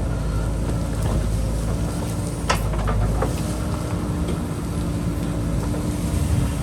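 JCB backhoe loader's diesel engine running steadily under work, with a sharp metallic clank about two and a half seconds in and a few lighter knocks after it as the machine works the rock and soil.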